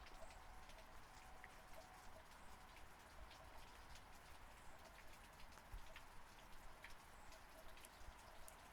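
Faint steady rain: an even hiss of falling rain with many individual drops ticking and pattering on surfaces close by.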